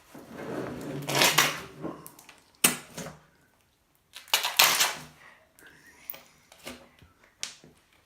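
Homemade slime being squeezed and poked, making popping and squelching noises in several bursts, with one sharp pop about two and a half seconds in and smaller clicks near the end.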